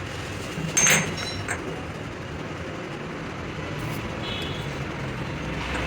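A single metallic clink about a second in, over a steady low rumble of workshop background noise.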